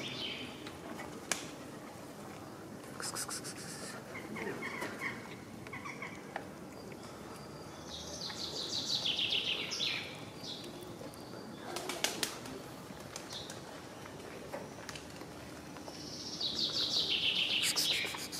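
A songbird singing a fast trilled phrase that falls in pitch, repeated about every eight seconds, with other small chirps in between. A few sharp clicks stand out, the loudest about twelve seconds in.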